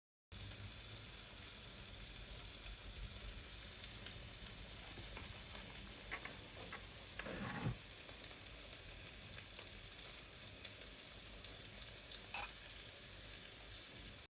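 Food sizzling as it fries in a pan, a steady crackle, with one brief louder sound a little past halfway.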